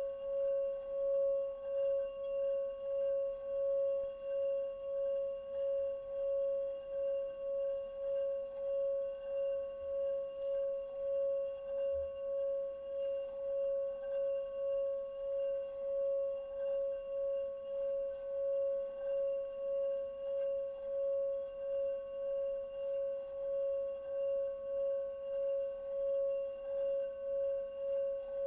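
Singing bowl kept sounding as a constant, sustained tone, wavering evenly in loudness a little more than once a second, with fainter higher overtones ringing above it.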